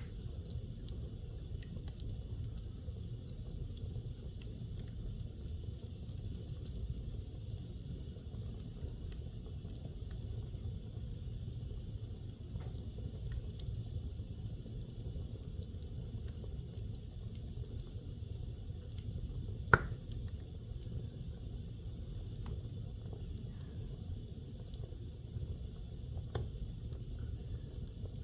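Fire burning in a fireplace: a steady low rumble with scattered crackles, a loud pop about twenty seconds in and a smaller one a few seconds later.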